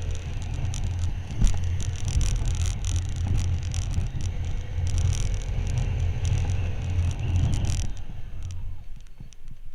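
Motorcycle engine running under way, with wind noise buffeting the microphone; the engine note rises and falls slightly. About eight seconds in, the engine and wind noise drop away to a much quieter background.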